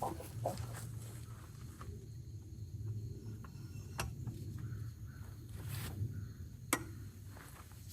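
Scattered metallic clicks and knocks of a wrench and cheater bar working on a tractor wheel's lug nuts, the sharpest a little before the end, over a low steady hum.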